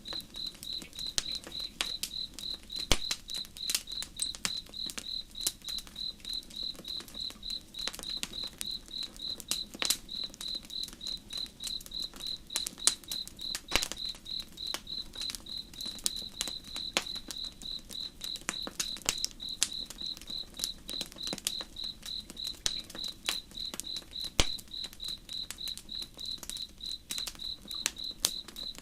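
Campfire crackling, with scattered sharp pops and snaps, over an insect chirping steadily at about three chirps a second.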